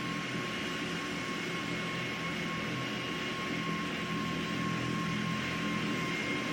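Steady drone of jet aircraft engines running at a distance, a low hum under a faint, even high-pitched whine.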